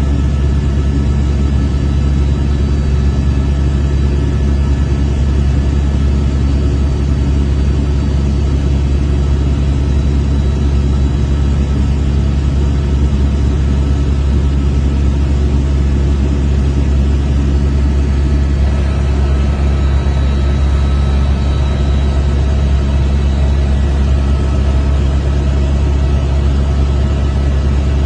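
Steady, loud low rumble of a glacial lake outburst flood: a torrent of floodwater and debris rushing down the river channel.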